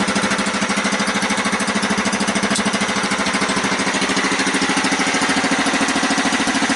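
The dragster's engine running steadily with an even, rapid firing beat, warmed up after a cold start and running really good.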